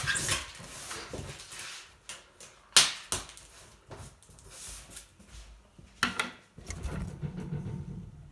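A few sharp knocks and clatters of hard objects being handled, the loudest about three seconds in, with rustling between them.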